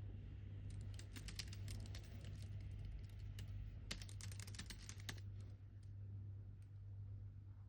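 Typing on a computer keyboard: two quick bursts of keystrokes, one starting about a second in and a second a few seconds later.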